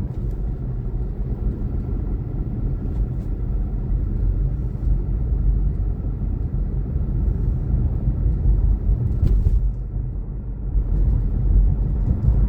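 Steady low rumble of a car's engine and tyres on the road, heard from inside the moving car's cabin, with a faint click about nine seconds in.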